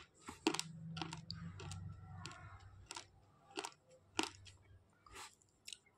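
Slate pencil being chewed with the mouth closed, close to the microphone: a series of short, sharp crunches at irregular intervals with soft mouth sounds between.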